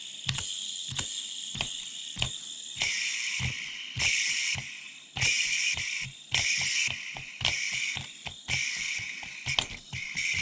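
Electronic rhythm pattern from a vintage music gadget: a quick, even run of sharp clicks with a little thump in them, over bursts of hiss that switch on and off in a pattern.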